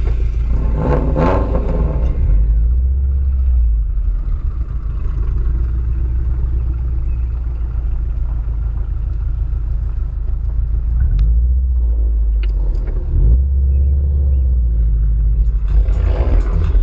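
Car engine exhaust rumbling at close range, with a brief rev about a second in.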